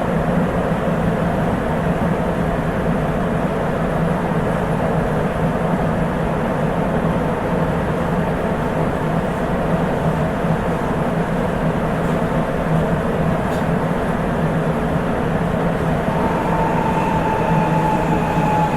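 Sapporo Municipal Subway 8000 series car running at speed, a steady rumble of its rubber-tyred running gear. About 16 s in, the whine of its Hitachi IGBT VVVF inverter sets in and slowly falls in pitch as the train begins to brake.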